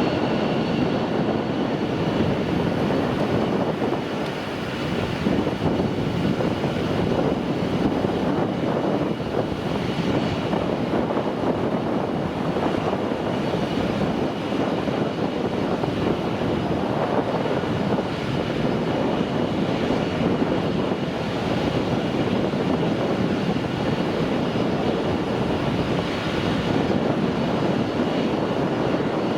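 Jet airliner engines running steadily: a dense, even rumble with a faint steady high whine laid over it.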